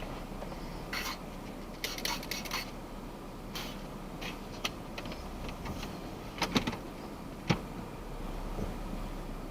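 Scattered small clicks, taps and light rattles of objects being handled, with a cluster of knocks about two seconds in and another near the end, over a faint steady low hum.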